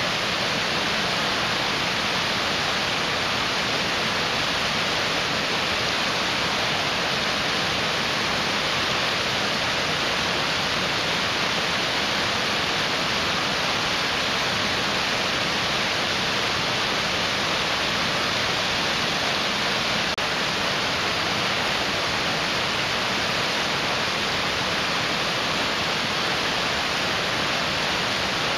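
Mountain stream rushing: a steady, unbroken hiss of fast-flowing water.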